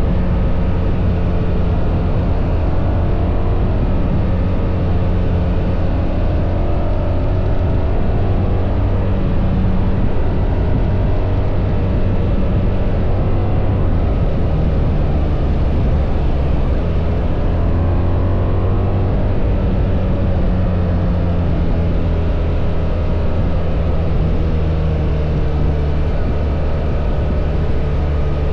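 BMW R1300 GS boxer-twin engine running while riding, its pitch rising and falling several times as the bike speeds up and slows.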